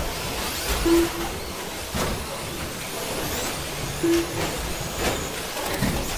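Electric short course RC trucks with 13.5-turn brushless motors racing: high motor whines rising and falling as the trucks speed up and slow down, with several sharp clacks as they land and hit the track.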